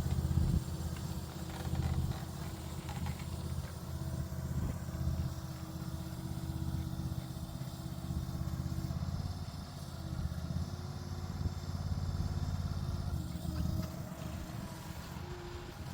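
Engine of a Typhon Stomp mini skid steer running steadily, its level rising and falling a little as it works.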